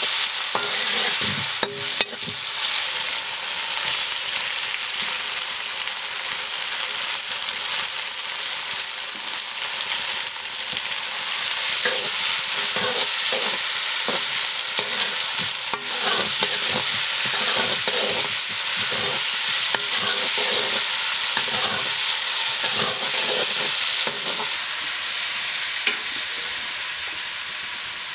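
Onions, tomatoes and spices sizzling in hot oil in a metal wok, stirred and scraped with a wooden spoon, with a couple of sharp knocks.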